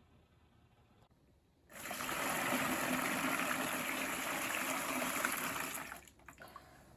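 Running water, starting about two seconds in and stopping about a second before the end.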